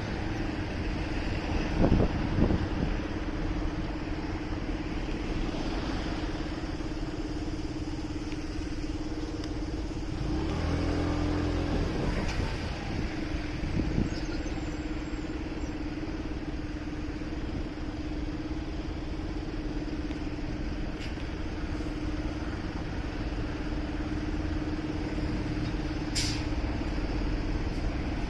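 Motorcycle on the move in city traffic: steady road and engine noise with a constant hum. There are a couple of light knocks and a brief high-pitched squeak near the end.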